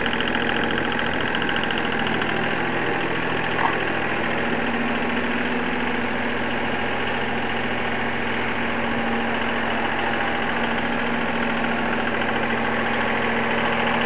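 John Deere engine fitted in a Dodge Colt, running steadily at an even speed, with one brief tick a few seconds in.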